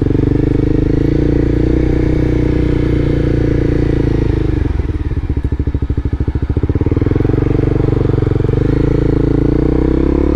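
Engine and road noise of a slowly moving car as heard inside its cabin, a steady low drone, with a fast pulsing throb for about three seconds in the middle.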